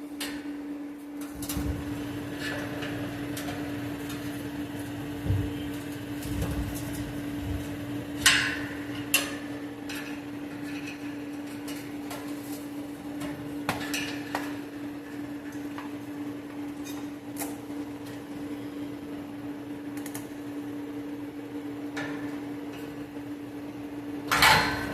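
A pry bar working at a cut truck exhaust pipe: scattered metal clanks and knocks, sharpest about a third of the way in and again near the end, over a steady low hum.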